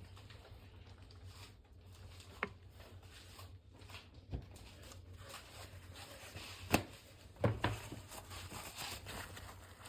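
Faint rubbing of beeswax and mineral oil wax being worked by hand into bare acacia wood, broken by a few short light knocks, the sharpest about two-thirds of the way through.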